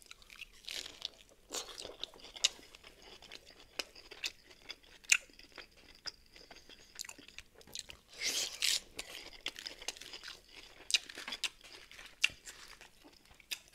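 Chewing a lettuce wrap of roast chicken with hot sauce: crisp lettuce crunching in many short crackles between quieter mouth sounds, with a louder stretch of crunching about eight seconds in.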